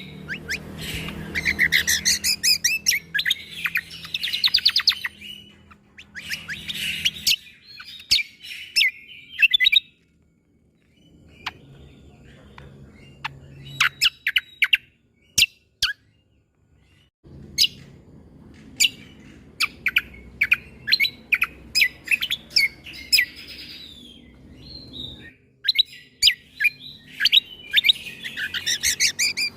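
Cucak kombo (kecial kombo) song: fast chattering trills broken by many sharp, clipped single notes, the 'shot' (tembakan) notes this masteran is made for. The song comes in bursts, with short pauses about ten seconds in and again around sixteen seconds.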